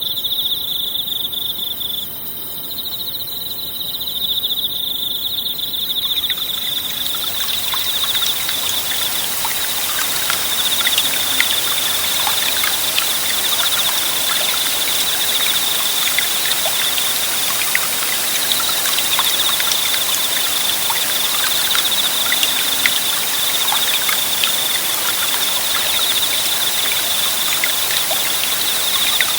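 Crickets trilling steadily in a high, even chorus; about six seconds in, the babbling and trickling of a small forest stream fades in and runs on beneath them.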